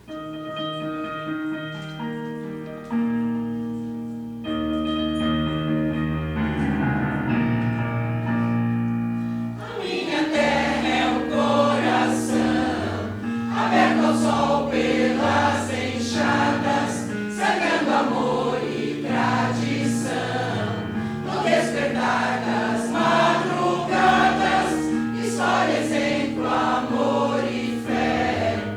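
Electronic keyboard plays an introduction in held chords. About ten seconds in, a mixed amateur choir enters singing, with the keyboard accompanying.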